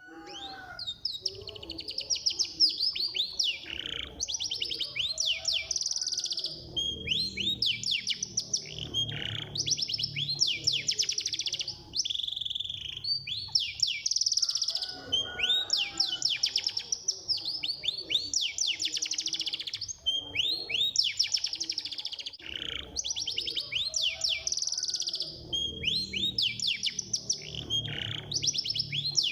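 Domestic canary singing a fast, continuous song of rapid trills and chirps, in phrases that follow one another with short pauses.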